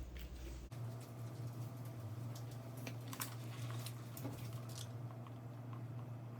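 Close-up chewing and biting of crispy KFC fried chicken: scattered crunches and wet mouth clicks over a steady low hum.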